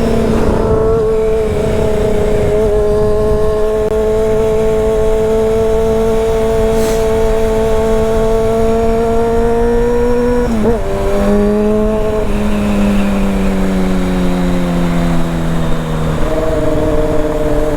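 Honda CBR600's inline-four engine running at steady high revs while riding, over steady wind rumble. About eleven seconds in, the pitch breaks and drops with a gear change, the revs sink slowly, and near the end the pitch steps again.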